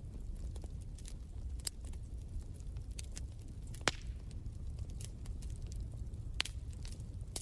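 Wood fire crackling in a fireplace: irregular sharp pops and snaps over a steady low rumble of burning, with one louder pop about four seconds in and another near the end.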